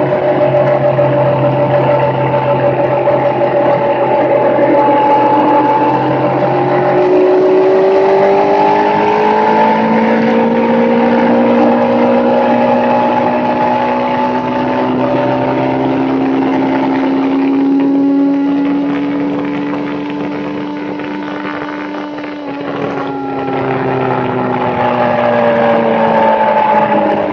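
A motorbike running, the pitch of its motor gliding slowly up and down as it speeds up and slows. About three quarters of the way through it eases off and goes quieter, then its pitch drops and it picks up again.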